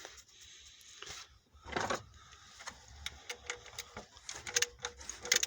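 Irregular sharp clicks and light knocks from a piston in the Ford Scorpio 2.0 OHC engine being pressed and rocked in its bore, coming mostly in the second half. The clicking shows play in the first cylinder's piston, which drops when pressed and which the owner finds the loosest, the cause of the engine knock.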